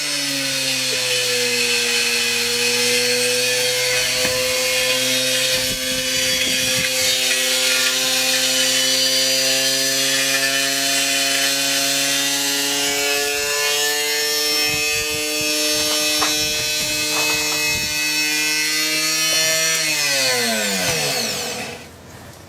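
Washing machine spinning hard with heavy iron loose in the drum: a steady motor-and-drum whine under loud rattling and grinding. About twenty seconds in, the pitch falls and the noise dies away as the drum spins down.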